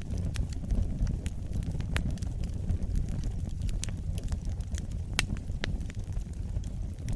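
Wood fire burning with a steady low rumble of flames and frequent irregular sharp crackles and pops, a few louder than the rest.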